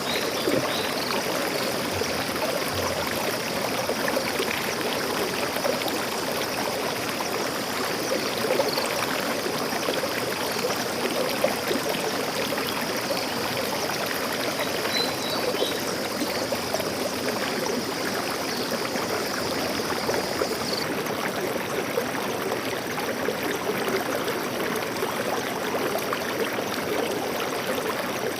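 A stream of water flowing and trickling steadily, an even rushing hiss without pauses.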